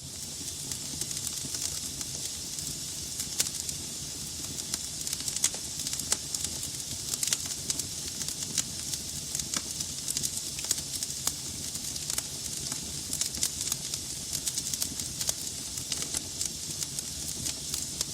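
Log fire burning in a fireplace: a steady hiss with frequent irregular sharp crackles and pops from the burning wood.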